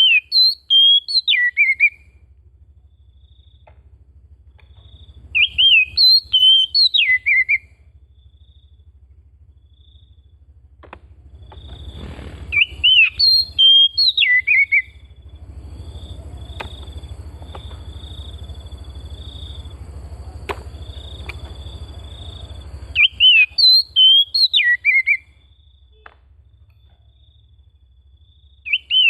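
Oriental magpie-robin song: the same short phrase of clear, sweeping whistled notes repeated about five times, a few seconds apart. A low rushing noise sits underneath in the middle stretch.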